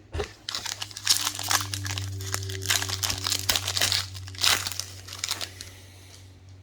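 Crinkling and tearing of a foil trading-card pack wrapper being ripped open and crumpled, a dense run of crackles that thins out near the end.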